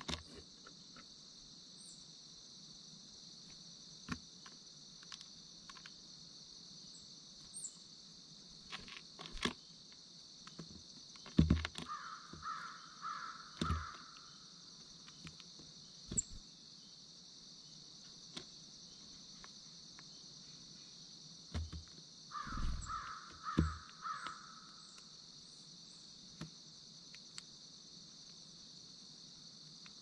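Two short series of harsh, cawing corvid calls, four or five calls in each, about ten seconds apart. Under them runs a steady high-pitched drone of insects, and a few dull thumps come with the calls.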